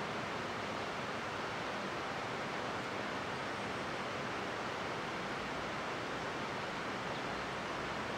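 Steady, even rushing noise of flowing water from a mountain stream, with no change or break.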